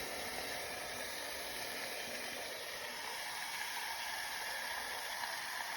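Chicken pieces sizzling steadily in a hot, lightly greased pot.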